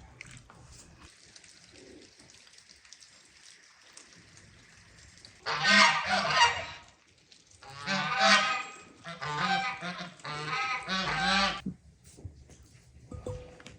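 Geese honking in four loud bouts of calls, starting about five and a half seconds in.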